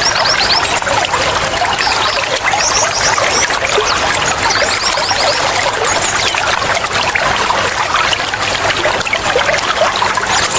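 Flowing water trickling and bubbling steadily.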